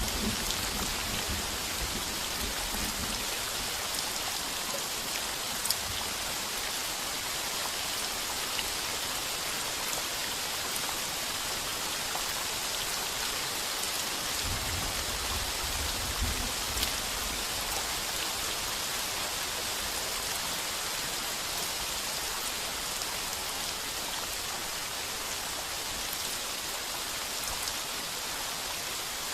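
Heavy rain pattering steadily on a tin roof, with a few sharp single drop hits. A low, brief rumble of distant thunder swells about halfway through.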